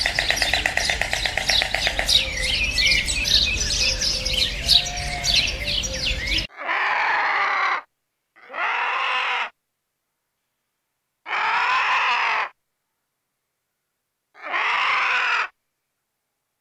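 Many small birds chirping densely together, then four separate drawn-out harsh calls, each about a second long and cut off cleanly, with dead silence between them.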